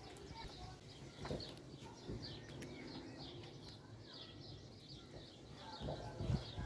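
Small birds chirping over and over in high, short notes, with a few low knocks or thumps coming in near the end.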